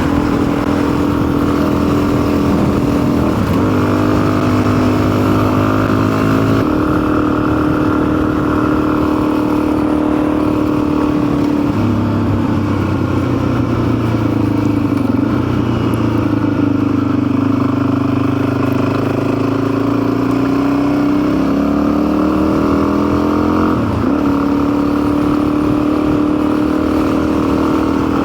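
Custom motorcycle's engine running while riding, its pitch shifting up and down several times with throttle and gear changes.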